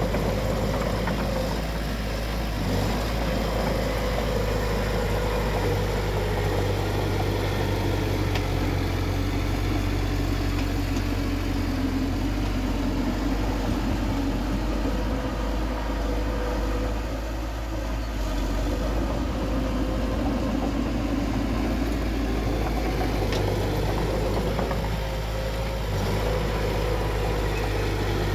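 Bulldozer's diesel engine running steadily: a constant low hum whose engine note shifts slightly in pitch as it works.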